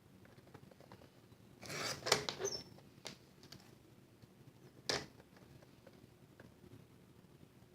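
Paper and card stock being handled on a crafting table: a brief rustle about two seconds in, then a small click and a sharper one about five seconds in.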